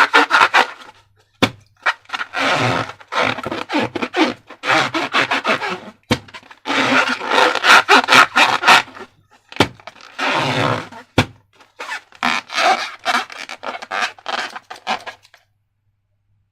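Slime being squeezed and worked by hand, sticky crackling and squelching in bursts of a second or two with short pauses, stopping about fifteen seconds in.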